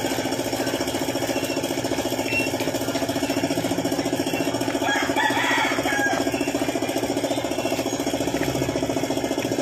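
Suzuki F6A 12-valve three-cylinder engine idling steadily, with a rooster crowing once about five seconds in.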